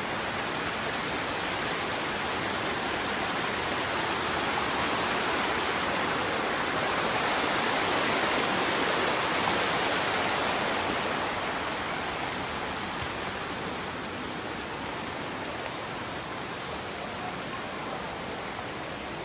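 Waterfall rushing steadily, growing louder for a few seconds midway and then easing. The falls are running high with rainwater.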